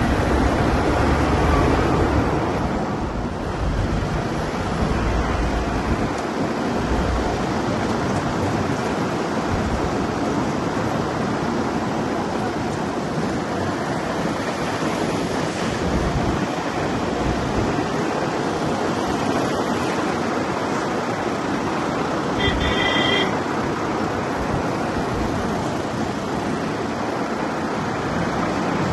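Steady rushing wind and road noise from a moving vehicle, buffeting the microphone, with an uneven low rumble. A brief high-pitched tone sounds about three-quarters of the way through.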